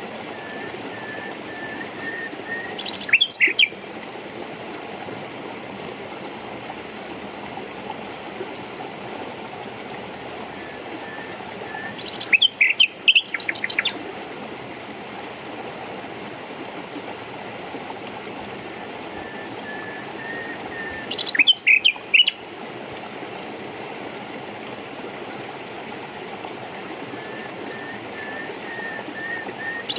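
Water running in a stream, a steady rushing, with a songbird singing the same short phrase three times, about nine seconds apart: a row of even notes that builds into a quick burst of higher chirps.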